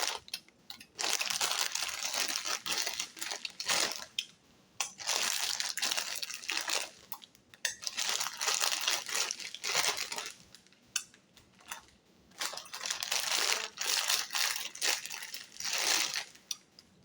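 Plastic snack packaging crinkling close to the microphone, in repeated bursts of one to two seconds with short pauses between.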